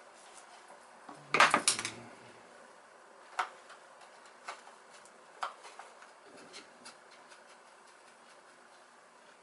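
Metal clattering and clinking, like tools or small metal parts being handled: a burst of clinks about a second in, then scattered single clicks and taps.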